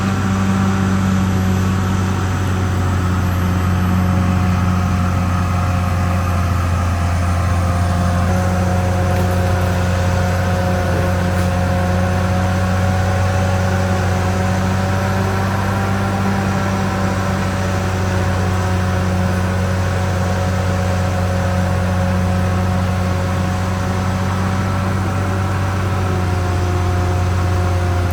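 Caterpillar D6R XL bulldozer's diesel engine running steadily under work, with a higher mechanical whine over the low engine hum that shifts slightly in pitch a few seconds in.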